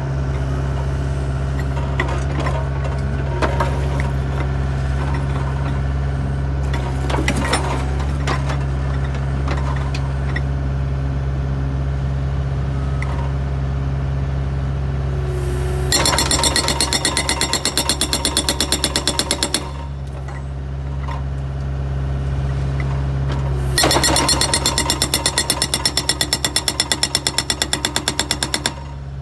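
Hitachi ZX65U mini excavator's diesel engine running steadily with a few knocks and clanks, then its hydraulic breaker hammering in two bursts of rapid, even blows: the first past the middle, about three and a half seconds long, the second near the end, about five seconds long.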